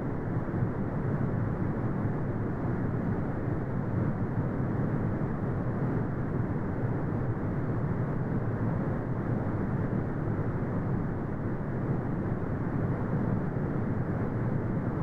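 Steady, deep brown noise: an even rumbling hiss weighted to the low end, with almost nothing above the midrange and no changes in level.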